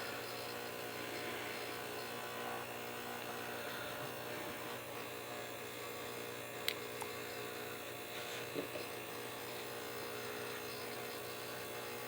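Steady electrical hum with a few faint, light clicks from small parts being handled.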